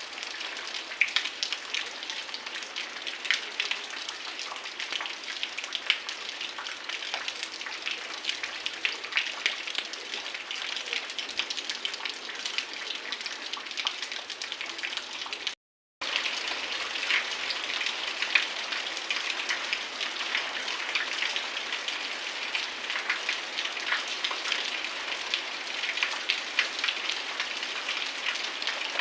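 Heavy rain falling steadily, a dense hiss thick with the ticks of individual drops hitting surfaces. It cuts out for a moment about halfway through, then comes back unchanged.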